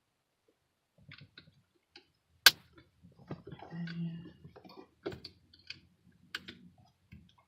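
Small plastic car-interior parts being handled: scattered clicks and light rattling, with one sharp, loud click about two and a half seconds in.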